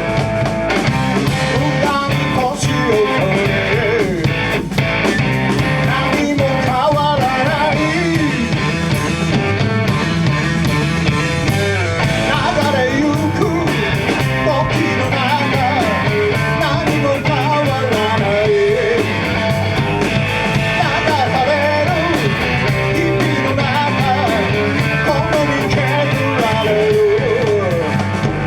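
Rock band playing an instrumental passage with guitars, bass and drums, a lead line bending in pitch over it.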